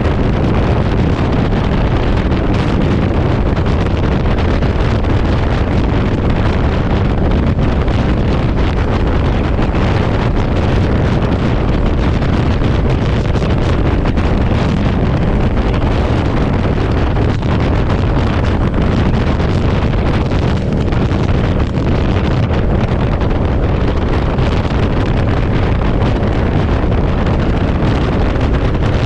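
Loud, steady wind noise rushing over the microphone of a motorcycle riding at speed in strong, gusty wind.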